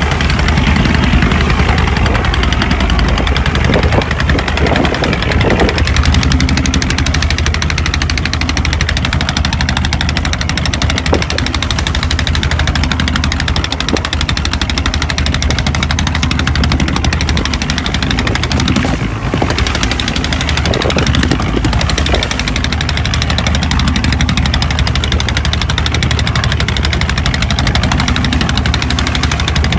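A boat's engine running steadily under way, with a constant loud hum and a noisy hiss over it.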